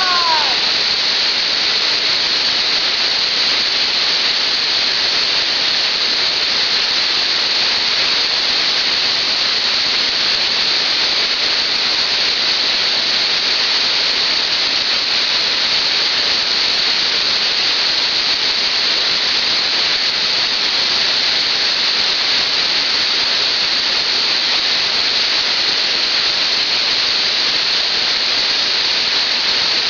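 Waterfall rushing steadily, a constant hiss of falling water with no change in level.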